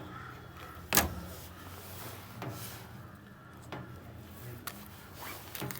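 Handling noises: one sharp click about a second in, then a few lighter clicks, over a low steady hum.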